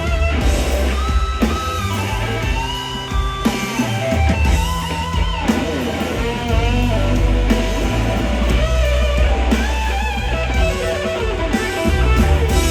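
Live blues-rock band playing an instrumental break: an electric guitar solos with bent notes over bass and drums.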